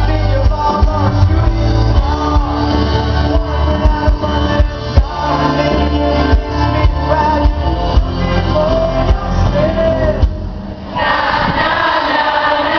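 Live rock band playing with a lead singer over drums and bass guitar. About ten seconds in, the bass and drums drop out briefly, and the singing carries on with little low end behind it.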